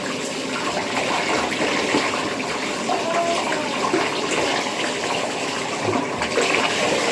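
Tap water running steadily into a tub while a dog is being washed and rinsed.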